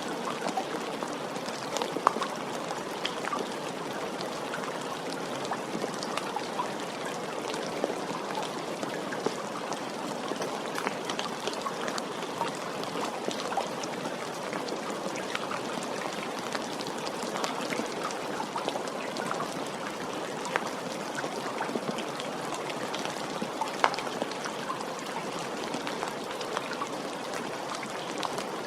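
Steady rain falling, an even hiss dotted with the sharp ticks of single drops landing close by, a couple of them louder.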